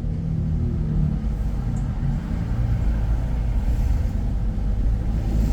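Steady low rumble of a car driving, with engine hum and road noise.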